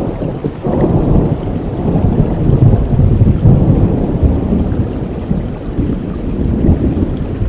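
Steady rain with a long roll of thunder that swells about a second in, is loudest around the middle and slowly fades.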